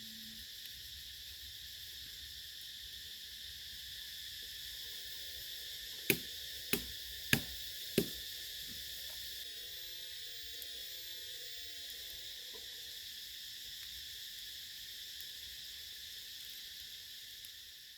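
Steady high-pitched chorus of insects in the forest, with four sharp knocks in quick succession about six seconds in.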